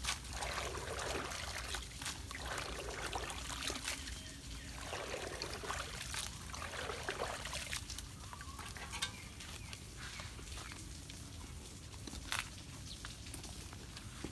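Water trickling and sloshing at a clogged drain, with scattered sharp clicks and knocks; the splashing is heaviest in the first half.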